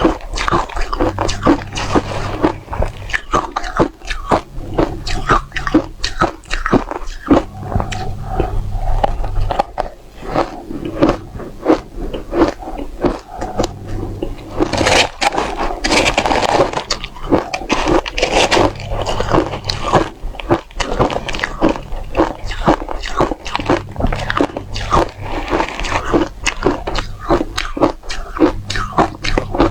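Frozen matcha ice with a dry, frosty texture being bitten and crunched, a quick irregular run of crisp crunches. The crunching grows denser and fuller about halfway through.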